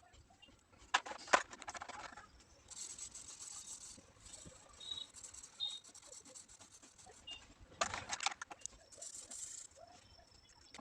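Drawing on paper: scratchy strokes of a pencil or colour across the sheet, with two brief clusters of clicking taps, about a second in and again near the end.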